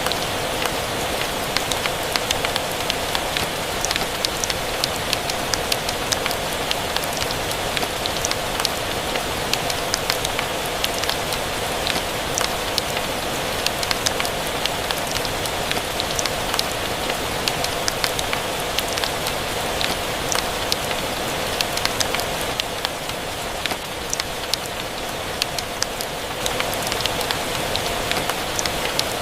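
Steady rain pattering together with a crackling wood fire: a constant hiss with many small sharp ticks and pops scattered through it.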